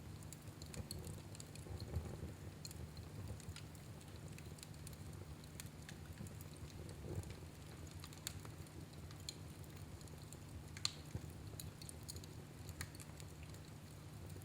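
Fire in a fireplace crackling softly, with scattered small pops and ticks over a low steady rumble; two pops stand out, about two seconds in and about eleven seconds in.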